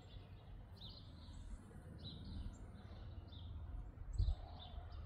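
Small birds chirping, short high notes repeating every half second or so, faint over a low outdoor rumble. A single dull low thump about four seconds in.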